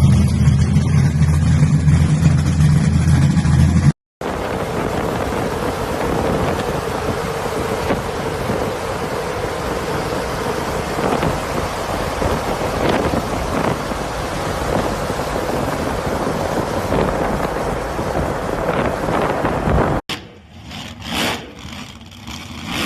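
A vehicle engine running with a steady low hum. After an abrupt cut comes a long stretch of loud, even rushing noise with a faint steady tone in it. After a second cut there are a few short, uneven bursts.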